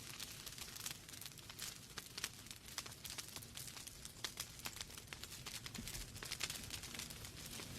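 Wood fire burning in a fireplace, logs crackling with irregular small snaps and pops over a low hiss.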